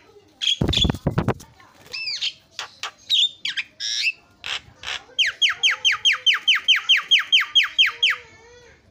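Javan myna (jalak kebo) singing: a harsh rasping call, then a medley of varied whistles and clicks, and from about five seconds in a fast run of repeated downward-sweeping whistled notes, about five a second, for some three seconds.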